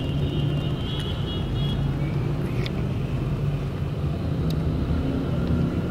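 Steady low hum of a car's engine heard from inside the cabin, with a few light clicks.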